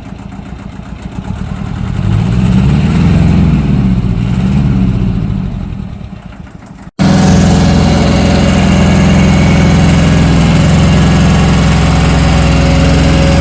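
Tractor engine revving up under load about two seconds in, its pitch wavering for a few seconds before easing off. After an abrupt cut about seven seconds in, an engine runs steadily and loudly.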